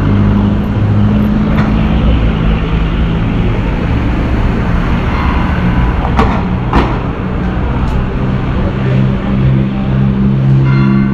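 Motor vehicle engine running close by with a steady low hum, over street noise. Two sharp clicks come a little after six seconds in, about half a second apart.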